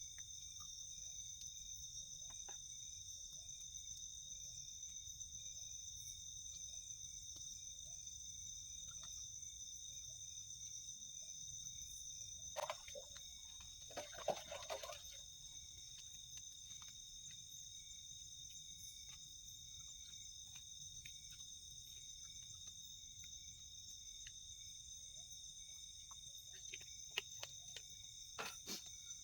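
Forest insects, crickets among them, singing steadily in several high pitches at once. A brief louder rustle comes about halfway through, and a few sharp clicks near the end.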